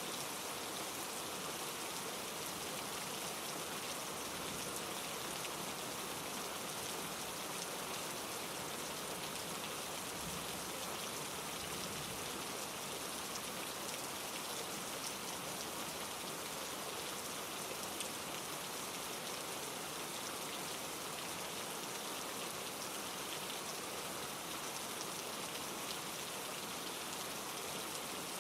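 Steady rain falling on the leaves, branches and pine needles of trees: a continuous, even hiss of many small drops that does not change.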